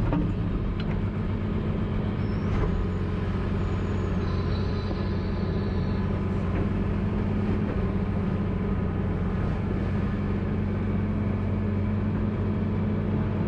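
Tractor engine running at a steady speed while stirring up a manure tank, a constant deep drone.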